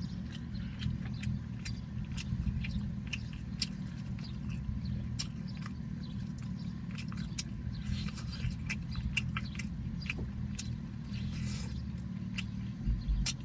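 Close-up eating sounds: biting into and chewing a rotisserie chicken drumstick, with many short wet mouth clicks and smacks, over a steady low hum.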